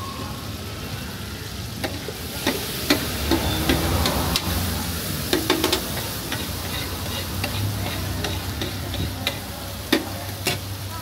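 Liver and tomatoes sizzling on a large flat tawa griddle while a metal spatula stirs and scrapes them. Sharp clacks of the spatula on the griddle come in quick clusters, mostly in the first half, with another strike near the end.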